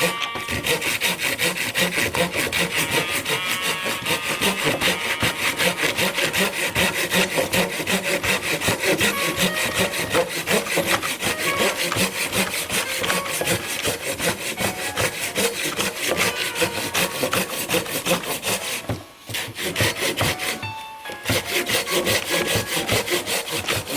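Hand saw cutting through wood in steady back-and-forth strokes, pausing briefly twice near the end.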